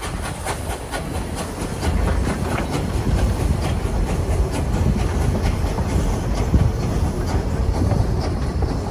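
Narrow-gauge steam train's cars rolling along the track: a steady low rumble with rapid, irregular clicking of the wheels over the rails.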